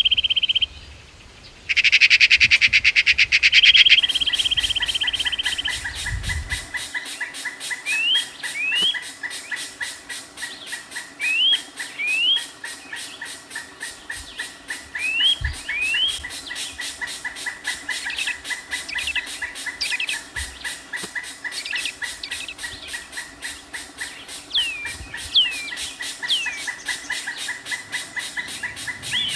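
Wild birds calling: short, rising chirps, often in quick pairs, over a steady fast-pulsing background chorus. A loud, buzzy trill fills the first few seconds and stops for a moment about a second in.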